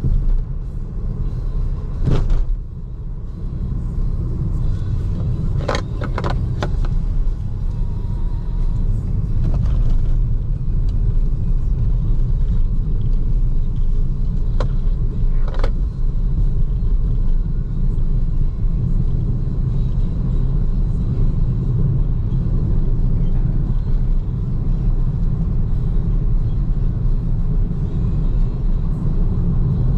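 Steady low road and tyre rumble of a BYD Seagull electric car driving, with no engine note, and a few brief knocks or clicks.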